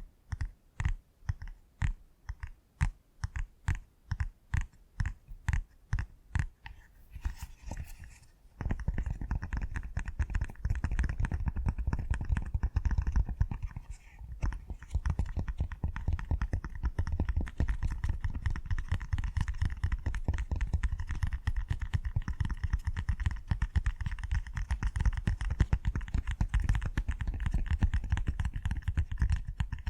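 Pop-it fidget toy bubbles being pressed one after another, popping about twice a second. About eight seconds in they give way to a fast, continuous run of pops.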